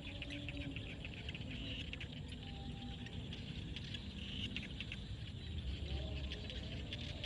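Frogs calling in a field: a dense, fast clicking chorus with short, lower-pitched call notes scattered through it.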